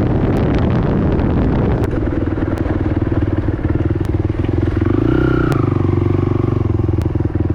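ATV engine running at low speed, blurred by wind noise for the first two seconds. After that it settles to a steady engine note, with a brief rise in revs about five seconds in.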